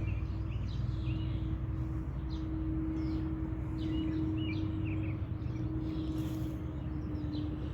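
Steady low hum with a faint constant tone, and scattered short, faint high chirps.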